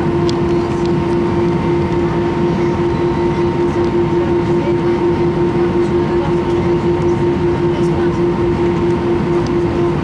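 Steady cabin noise inside an Airbus A319 on the ground after landing: a constant hum with a slight even pulsing over a low rumble.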